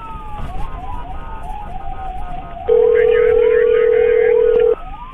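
Emergency vehicle siren wailing, its pitch sweeping up and down. About halfway in, a loud steady electronic tone sounds for about two seconds over it, then cuts off.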